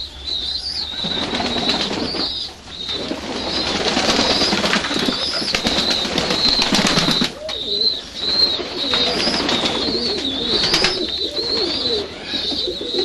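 Doves cooing, with wing flapping and rustling through the first half. A thin, continuous high-pitched chirping runs under it all.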